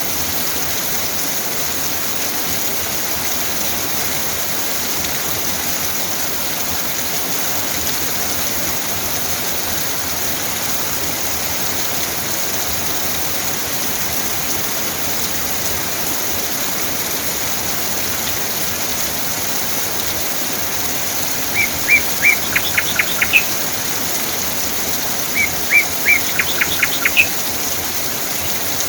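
Steady rain falling, an even hiss throughout. Near the end a bird calls in two quick series of short chirps a few seconds apart.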